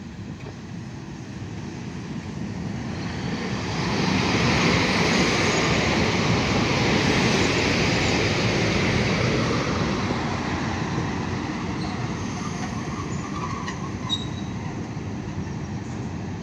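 EU07 electric locomotive hauling a passenger train past at low speed into a station: steady rumble and rail noise that grows as it nears, is loudest as it passes close by about four seconds in, then slowly fades. Brief thin wheel or brake squeals come near the end as the train slows.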